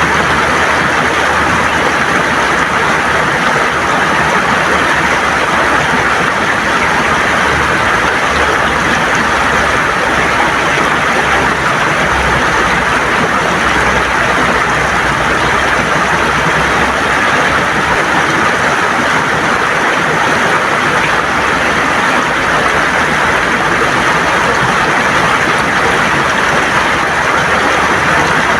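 River water rushing and gurgling over stones, a loud, steady wash of noise.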